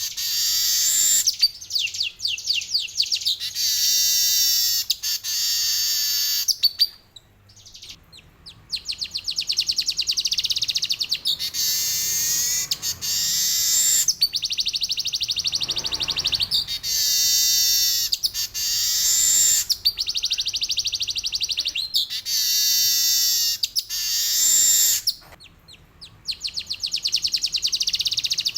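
Male manyar (weaver bird) singing long, fast, rolling high-pitched phrases, pausing briefly twice.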